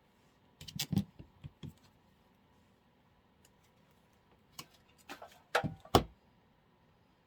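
Short clicks, taps and knocks of artificial flower stems and craft materials being handled on a work table, in two bursts: about a second in and again around five to six seconds in.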